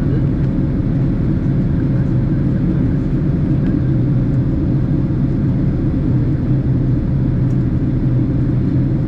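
Steady cabin noise of a Boeing 767 airliner in flight: an even low rumble of engines and rushing air, with a faint steady hum above it.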